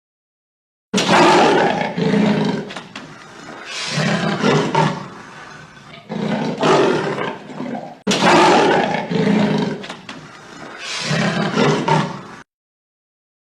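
Big cat roaring: about five loud, rough roars a couple of seconds apart, starting about a second in and cutting off abruptly near the end.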